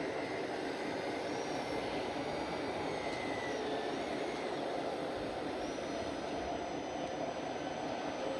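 Radio-controlled scale model vehicle running: a steady mechanical drone with a faint electric motor whine that rises and falls slightly.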